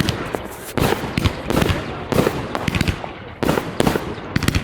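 Fireworks going off in a rapid series of sharp bangs and crackles, about two a second, with a rumbling echo trailing each one.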